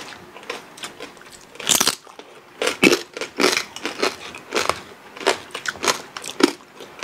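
Crunching and chewing of crispy deep-fried pork knuckle skin (lechon pata) in irregular crackly bites, the loudest about two and three seconds in.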